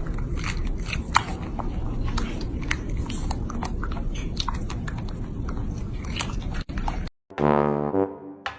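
Close-up chewing and crunching of food, full of small crisp crackles. Near the end it cuts off and brass music begins.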